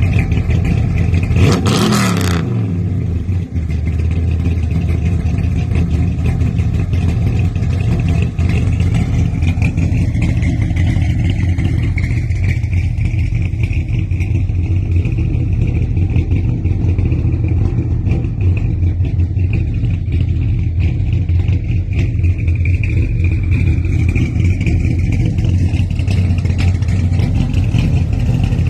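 1965 Chevrolet Impala Super Sport engine and exhaust, revved once sharply about two seconds in. The pitch falls back, and it then runs steadily at idle with a low exhaust rumble.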